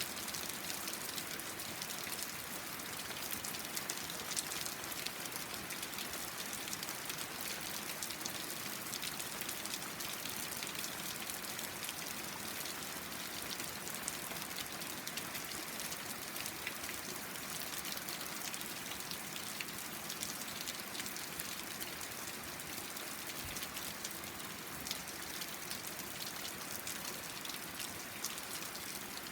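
Steady rain falling: an even, dense hiss of drops with many small sharp drop ticks scattered through it.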